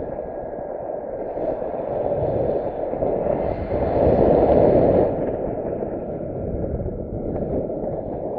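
Wind buffeting the microphone: a loud, rough rumble that swells to its strongest about four seconds in, then eases.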